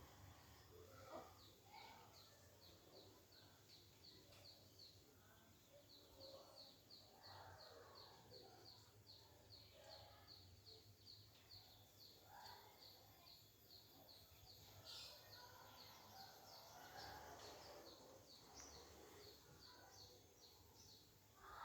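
Faint outdoor nature sound: a small bird repeats a short, high chirp about three times a second, with other faint calls and rustles underneath.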